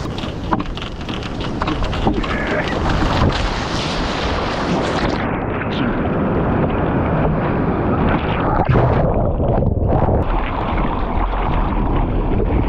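Ocean surf rushing and breaking, with wind buffeting the microphone. About five seconds in, the sound turns duller as the high end drops away.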